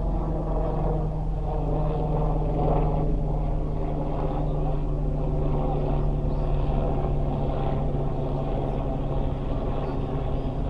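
A steady, even mechanical hum of constant pitch, like a running motor or engine, with faint voices over it.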